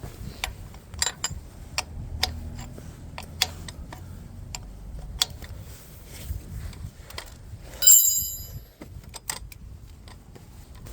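Hand tools and small metal parts being handled: scattered light clicks and knocks at irregular intervals, with one sharp ringing metal clink about eight seconds in.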